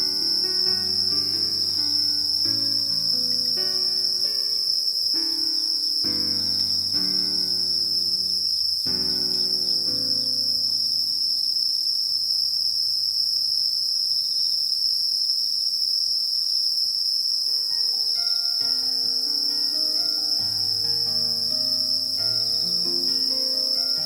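Crickets chirring in a steady, unbroken high-pitched chorus. Soft melodic music plays beneath it, falling away about ten seconds in and coming back about eighteen seconds in.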